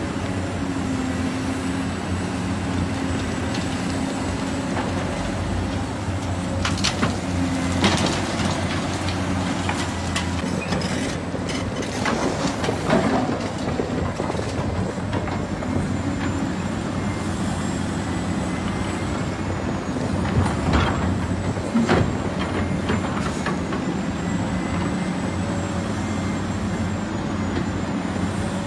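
Heavy diesel construction machinery running steadily, with a few sharp metal clanks and knocks from the work at intervals.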